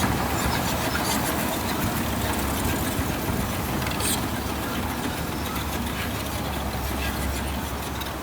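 Heavy earthmoving machine's diesel engine running steadily with a low drone, with a few light clanks over it.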